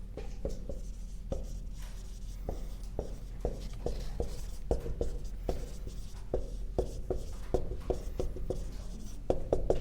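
Writing on a board: a run of short, irregular taps and scratches, a few a second, with a cluster of louder taps near the end.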